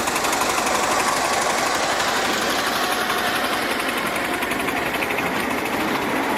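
Small internal-combustion engine running steadily close by, with a fast, even beat.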